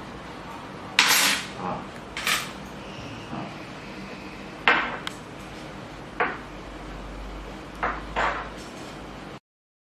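Small metal parts clinking and clicking as a drill handpiece and its collet key are handled: a series of about eight sharp metallic clinks, spaced irregularly over several seconds.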